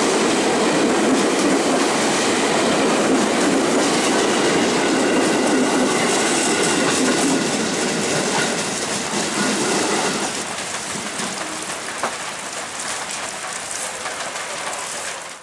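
KRL Commuter Line electric train running past on the track, loud for about ten seconds and then dropping off as it moves away, with a faint high whine over the rumble.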